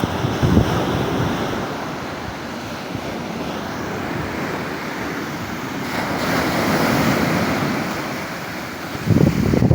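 Surf of a stormy sea: a steady wash of waves, one swelling louder and breaking about six seconds in, with wind buffeting the microphone, most strongly near the end.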